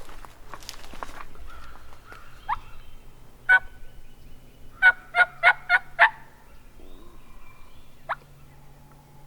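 A hand-operated turkey call sounding hen yelps close by: one yelp, then a quick run of five evenly spaced yelps, with short rising chirps before and after.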